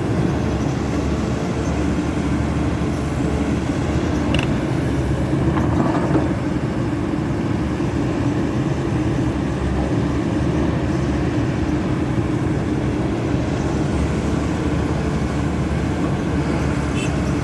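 Caterpillar 320D2 hydraulic excavator's diesel engine running steadily.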